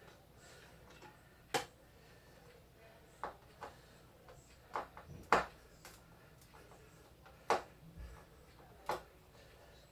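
Irregular sharp clicks and light taps, about eight spread unevenly, from small parts being handled as the screws holding an electronic keyboard's keys are taken out.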